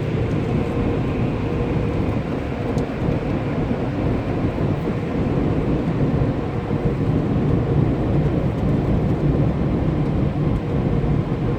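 Car wash water spray hitting the car, a steady, rumbling rush of water.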